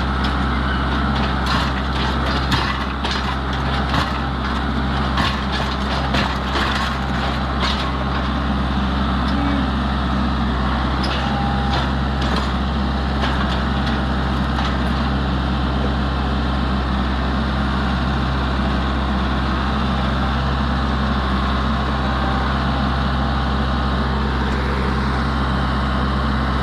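An engine running steadily at a constant speed, with scattered sharp metallic clicks and knocks during the first several seconds.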